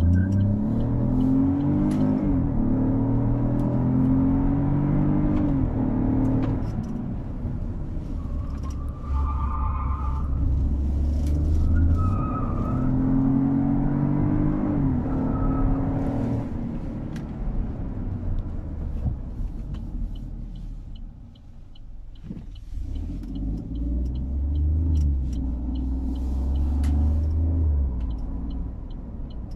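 The Opel Corsa's 1.2-litre turbocharged three-cylinder engine, heard from inside the cabin, accelerating hard through the gears: the engine note climbs in pitch and drops at each shift, three times in quick succession at the start, with more climbs in the middle and near the end and steadier cruising between.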